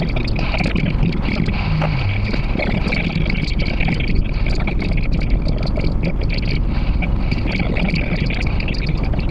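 Steady road and wind noise from a car being driven, with frequent short crackles.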